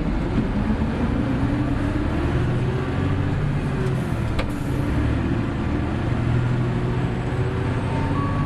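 Hino Blue Ribbon City hybrid bus under way, heard from inside the cabin: the diesel engine runs steadily with a slight dip and rise in pitch near the start, over continuous road noise.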